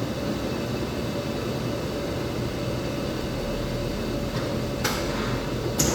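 Steady mechanical hum of laundromat machines running. A sharp click comes about five seconds in and another near the end.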